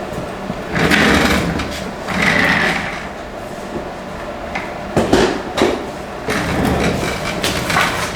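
Irregular handling noises of work on a tractor's radiator hose: scraping and rubbing bursts with a few sharp clicks and knocks as the hose and its clamp are worked loose.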